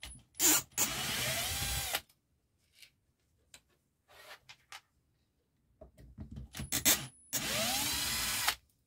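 Bosch GBH 2-26 DRE rotary hammer run in two short bursts of about a second each, its motor whine rising in pitch as it spins up. Short clicks and knocks come before each run.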